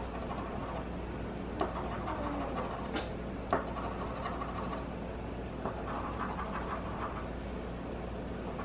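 The coating of an instant lottery scratch ticket being scratched off in repeated scraping strokes, with a few sharp clicks in the first half.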